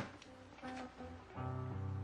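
Sparse solo guitar score: a couple of quiet plucked notes, then a low note struck a little past halfway and left ringing.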